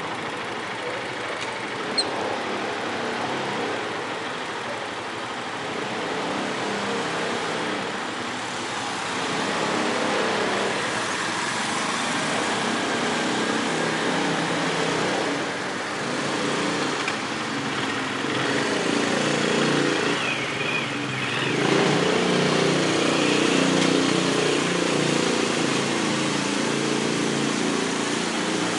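A road vehicle on the move: steady engine and road noise with a low rumble that slowly grows louder, and a single sharp click about two seconds in.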